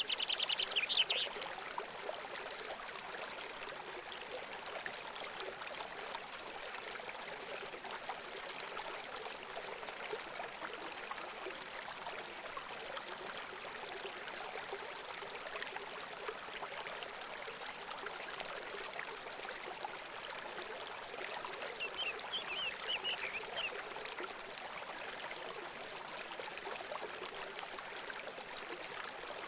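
Steady trickling of running water, with a small bird's quick trill right at the start and a short run of chirps about three-quarters of the way through.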